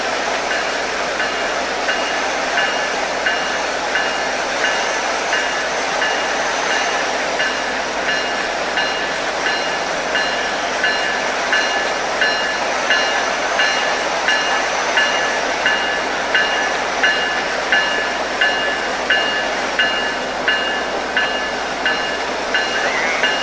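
Train rolling past, a steady rush of wheels on rail with a short ringing ping repeating about one and a half times a second.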